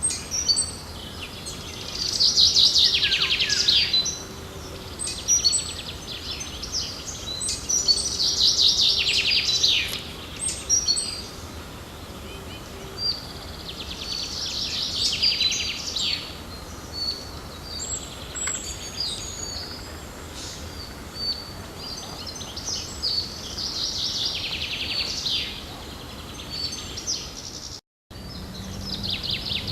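Wild songbirds singing. One bird repeats a loud song phrase of about two seconds, a quick run of notes, roughly every six seconds, while other birds give short chirps in between.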